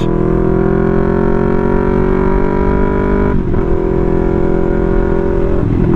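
Yamaha R3's parallel-twin engine and exhaust running loud at a steady cruise, pitch sagging slightly, then briefly breaking off a little past halfway and picking up again at a steady pitch.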